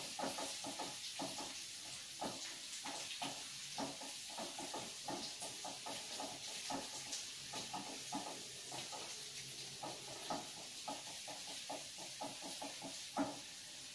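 Sliced shallots sizzling in hot oil in a wok, with a spatula stirring and scraping against the pan in many short strokes and a sharper knock near the end. The shallots are being fried until dry and crisp for a fried-shallot topping.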